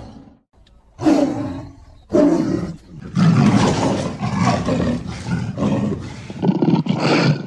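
Lion roaring: two short roars about a second apart, then a long roar with several surges that cuts off sharply at the end.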